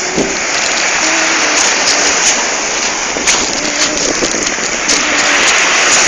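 Ocean waves: surf rushing and washing in as a loud, steady noise.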